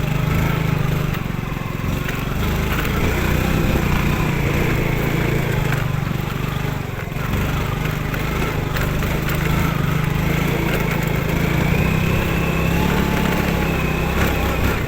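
Yamaha Finn motorcycle's small single-cylinder four-stroke engine running under way, its pitch rising and falling gently with the throttle, with a few light clicks and rattles.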